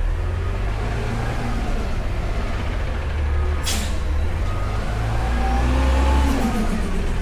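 Front-load garbage truck's diesel engine running with a steady low rumble, revving up and dropping back about five to six seconds in. A short burst of air hiss comes about three and a half seconds in.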